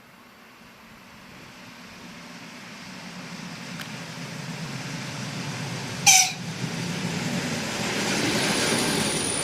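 ED4M electric multiple unit approaching along the track, its rumble growing steadily louder. About six seconds in comes a brief, loud horn toot.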